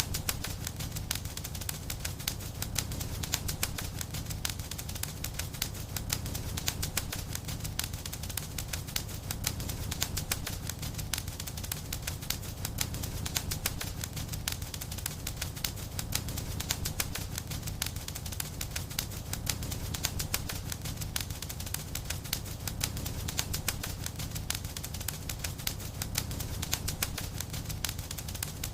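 Fireplace fire crackling steadily: a dense run of small pops and snaps over a low rumble of burning.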